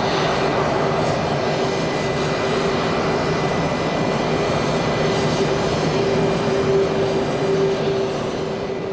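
Jet aircraft engine noise from the airport ramp: a steady rush with a held humming whine, starting to fade near the end.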